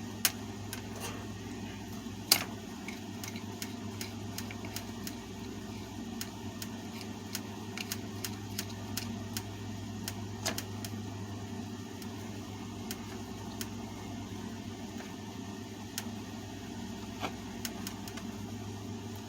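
Scattered clicks and knocks of a 12-inch table fan's plastic and metal parts being handled as its guard and blade are taken off, two sharper clicks in the first few seconds. A steady low hum runs underneath.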